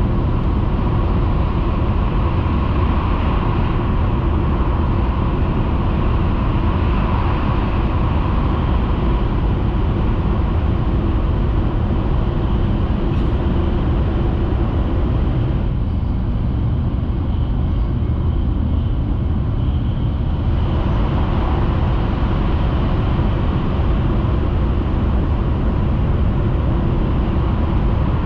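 Hayabusa Shinkansen train running at speed, heard from inside the passenger cabin: a steady, loud rumble with a hiss over it. The hiss dims for a few seconds a little past the middle, then comes back.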